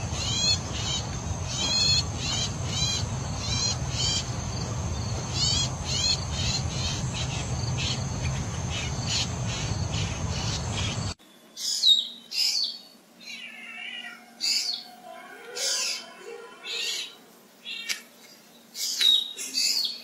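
Two different bird recordings. First, a bird repeats short high notes about twice a second over a steady low rumble. About 11 seconds in this cuts off suddenly to another bird giving varied high whistles and chirps with pauses between them.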